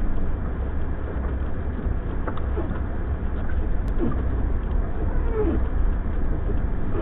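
Low steady rumble inside a car stopped in a blizzard, with a couple of short whining squeaks about four and five and a half seconds in.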